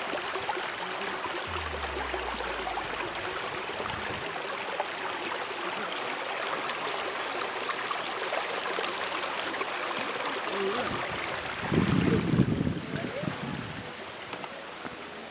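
Waterfall rushing, a steady wash of falling water. About twelve seconds in there is a brief low rumbling burst, like wind or handling on the microphone, and then the water sound drops in level.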